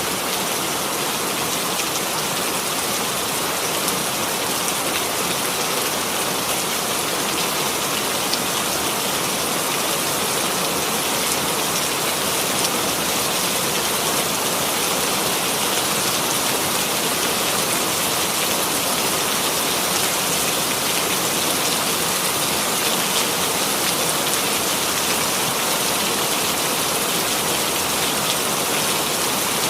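Steady rainfall, a dense even hiss of many small drops pattering on a surface.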